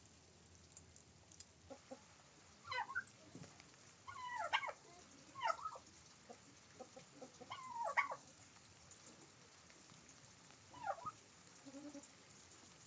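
Chickens clucking: about five short calls, a few of them doubled, over a faint steady hiss of rain.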